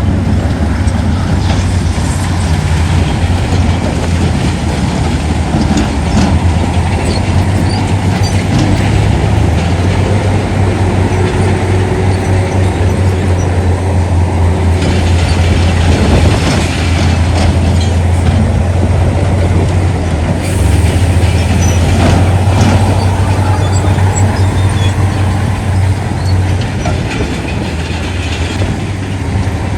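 Heavy diesel earthmoving machinery running steadily with a deep, loud rumble and scattered metallic clanks.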